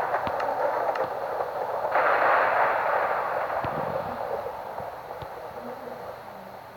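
Thunder rumbling, swelling about two seconds in and then slowly dying away.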